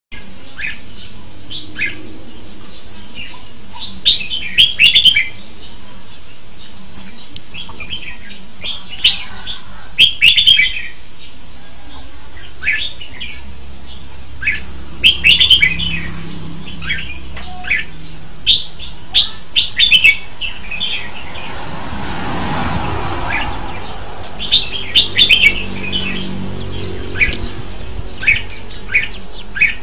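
Red-whiskered bulbul singing short, bright, warbling phrases every few seconds. A brief rushing noise swells and fades about two-thirds of the way through.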